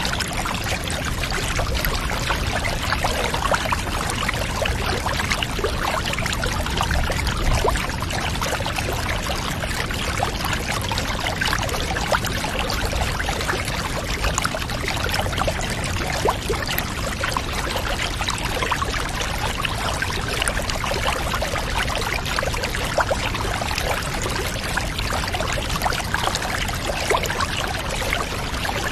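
Steady pouring and trickling water, an even rush sprinkled with many small splashing clicks.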